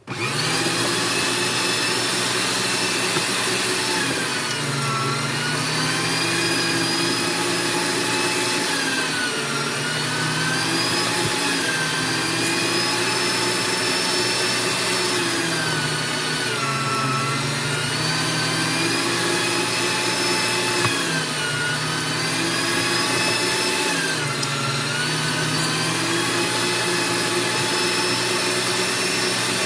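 Electric meat grinder motor running steadily while grinding beef, its pitch dipping briefly every few seconds as it slows under the load of meat being fed, then recovering. The blade is now seated correctly, which fixes the earlier trouble.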